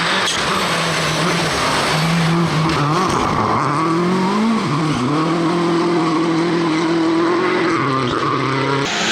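Car engine running with road noise, its note mostly steady but rising and falling slightly a few times.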